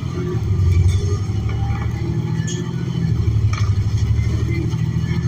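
Cabin sound of a New Flyer XN40 natural-gas transit bus under way: a steady low rumble from its Cummins Westport L9N engine, transmission and road, swelling slightly as it pulls, with a few brief rattles.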